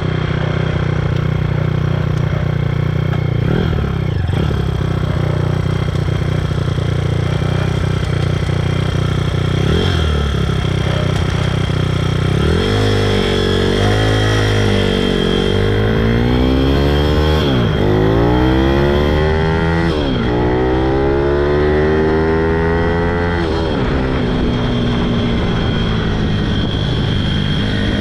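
Pitom pit bike's single-cylinder four-stroke engine running steadily, with two short throttle blips. From about halfway it revs repeatedly, its pitch climbing and dropping back several times, then settles into a steady note near the end.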